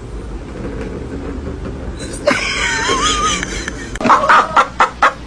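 A steady low rumble with a brief wavering call midway. Then, from about four seconds in, a chicken clucking in quick short bursts.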